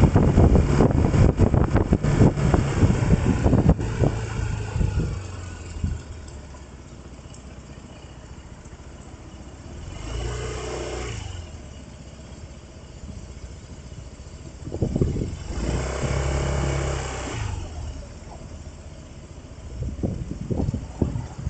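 Road vehicle travelling with wind and road noise, slowing over the first five seconds or so to a quieter steady engine sound. Other vehicles pass by twice, about ten and sixteen seconds in.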